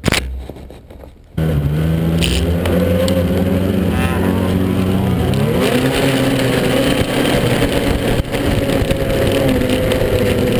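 Snowmobile engine running hard, starting abruptly about a second and a half in, its pitch stepping up about halfway through and then holding steady.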